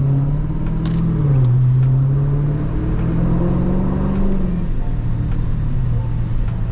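Dodge SRT Scat Pack's 6.4-litre HEMI V8 accelerating: the engine note rises, drops sharply at an upshift about a second in, climbs again through the next gear, then eases back to a lower steady note after about four and a half seconds.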